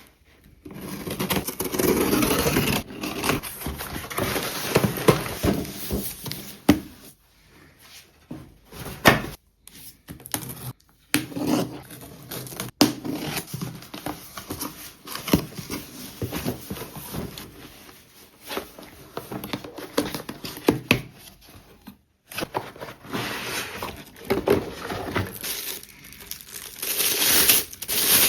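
Close crinkling and rustling of material being handled, with scattered sharp clicks and knocks and a few brief pauses.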